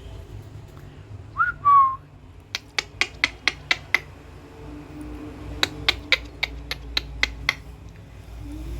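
Two short whistled notes, the first rising and the second steady and lower, followed by two runs of sharp clicks, about five a second, near a pet lovebird.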